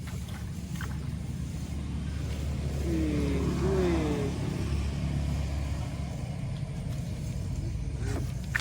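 A motor vehicle passing by: a steady low rumble that swells to a peak about three to four seconds in, then fades.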